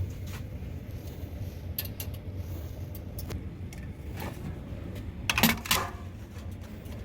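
Light clicks and clinks of small hard objects being handled, with a louder clatter about five and a half seconds in, over a steady low hum.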